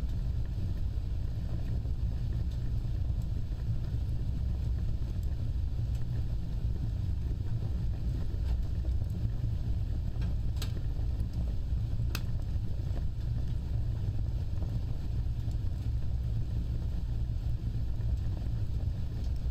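Wood fire burning with a steady low rumble of flames, and two sharp crackles about ten and twelve seconds in.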